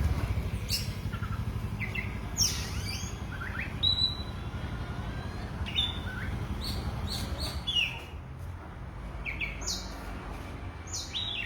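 Oriental magpie-robin singing: short, separate whistled and chirping notes, several sweeping downward, spaced about a second apart, over a steady low hum.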